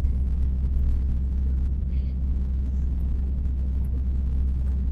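Steady low rumble inside the cab of a Renault HGV truck as it moves slowly.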